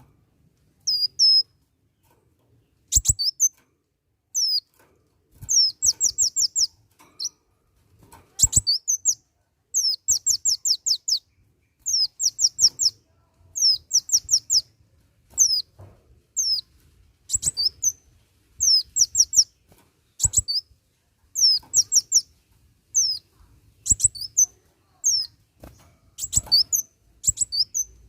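Kolibri wulung sunbird singing vigorously: quick runs of high, thin down-slurred notes, several in a row, repeated in short bursts about once a second. A few sharp knocks are heard among the song.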